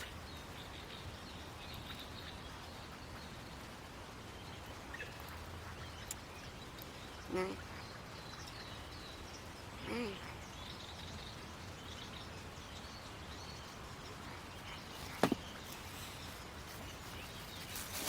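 Quiet outdoor ambience: a low steady hiss, two brief calls that bend in pitch about two and a half seconds apart, and a single sharp click later on.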